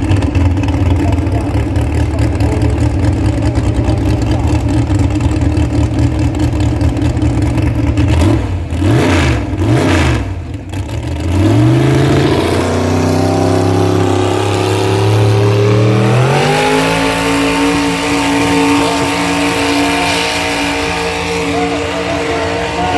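A pulling vehicle's big engine running loud and steady. It drops and wavers about eight to eleven seconds in, then climbs in pitch in two steps and holds at high revs.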